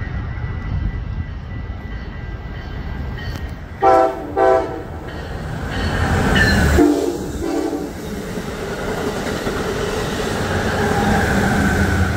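Train passing with a steady rumble, its horn sounding two short blasts about four seconds in and two more short blasts, lower in pitch, a couple of seconds later.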